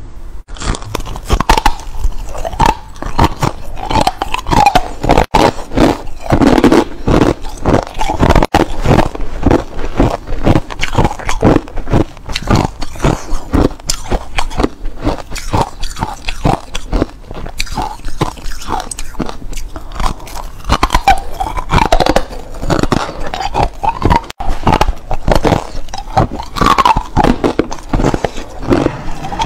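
Hard clear ice being bitten and chewed, a dense, unbroken run of loud crunches and cracks.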